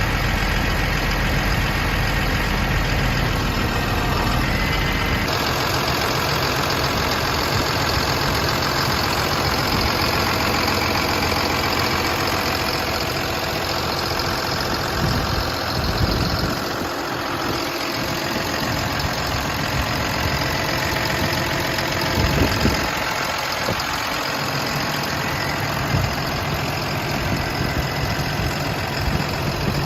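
Kalmar terminal truck's diesel engine running at a steady idle, its sound shifting about five seconds in.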